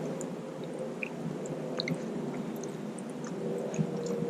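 A person chewing steak close to the microphone, over a steady low hiss with a few scattered soft clicks.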